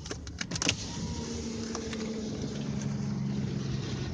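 A car engine runs steadily, heard from inside the cabin as a low hum, with a few sharp clicks in the first second.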